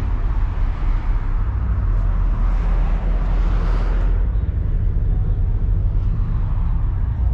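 Car engine running with a steady low rumble, and a swell of louder noise about two to four seconds in.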